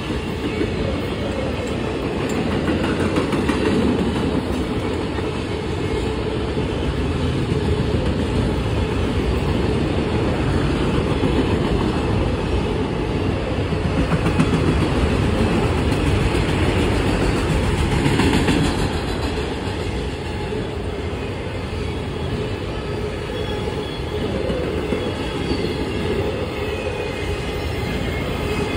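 CSX mixed freight train's cars rolling past steadily, steel wheels running on the rails.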